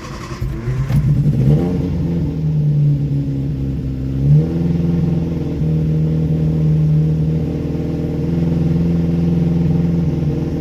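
Freshly rebuilt 1311cc A-series four-cylinder engine running after start-up, revs rising over the first couple of seconds and stepping up again about four seconds in, then held steady at raised RPM for its run-in.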